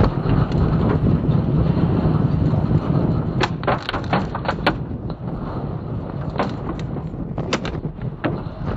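Violent storm wind blowing hard against the microphone as a heavy rumbling, with scattered sharp knocks and cracks, a cluster of them about four seconds in and a few more later.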